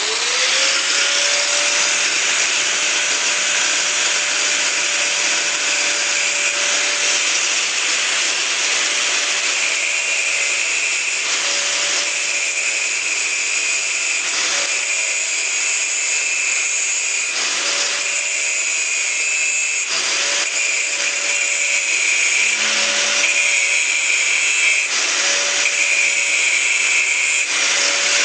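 An electric power tool starts with a quickly rising whine, then runs steadily at high speed over a dense hiss. Its note breaks off briefly several times, as if the load on the tool changes.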